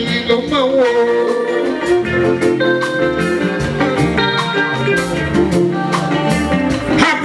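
Live fuji band music: drums and percussion under held melodic instrument lines.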